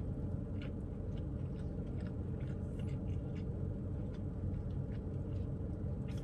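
A man chewing a mouthful of breakfast biscuit sandwich, with faint soft mouth clicks every half second or so. Under it runs a steady low hum inside a parked car's cabin.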